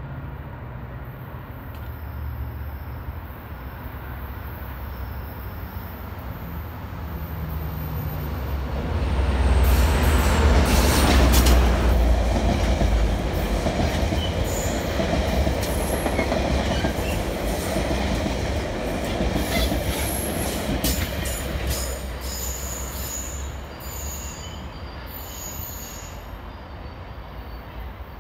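A diesel-hauled train passing close by: the locomotive's low engine rumble builds to a peak about ten seconds in, then the cars roll past with high-pitched wheel squeal and short clicks over the rail joints before the sound eases near the end.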